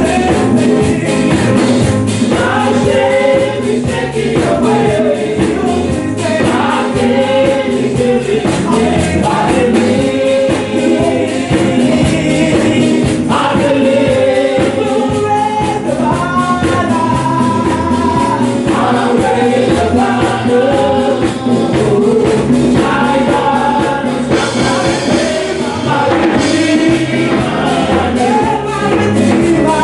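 A choir singing a gospel song over instrumental accompaniment with a steady beat.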